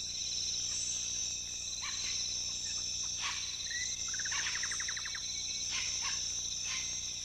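Rainforest insects shrilling steadily at a high pitch. Scattered short bird calls sound over them, with a rapid trill about four seconds in.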